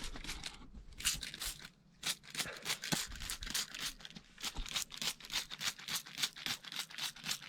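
Rock pick scraping and chipping at crumbly rock and dirt around an opal seam, in quick repeated strokes about three a second after a short pause.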